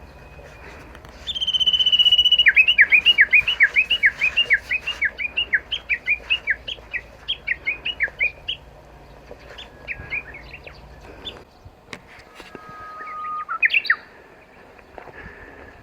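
Japanese bush warbler (uguisu) singing: a long held whistle, then a run of fast, repeated falling notes lasting several seconds, the bird's rolling valley-crossing call. Near the end it gives a low held note followed by a quick rising flourish, the start of its "hō-hokekyo" spring song.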